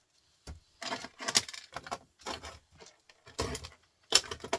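Irregular clatter and knocks of small scrap parts being handled and set down, a handful of separate bangs, the sharpest about a second and a half in and near the end.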